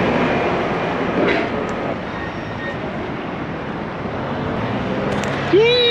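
Steady rushing rumble of a moving train. A pitched melody comes in near the end.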